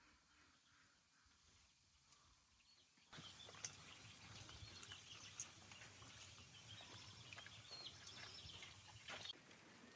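Very faint outdoor background: near silence for about three seconds, then a soft, noisy hush with scattered light clicks and ticks that starts abruptly and changes abruptly again near the end.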